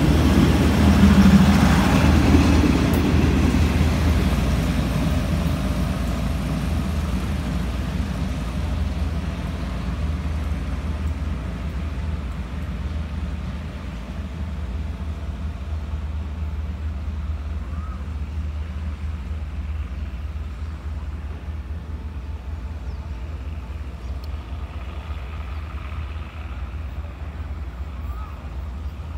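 Diesel passenger train departing: the engine and wheel-on-rail noise are loudest as the last car passes close at the start, then fade steadily as the train pulls away, leaving a low rumble.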